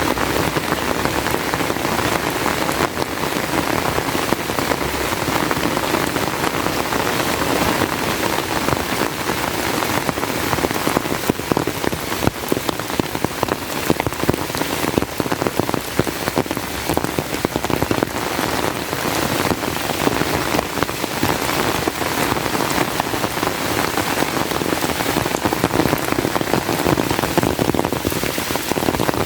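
Heavy rain falling steadily: a dense, even patter of countless drops striking surfaces.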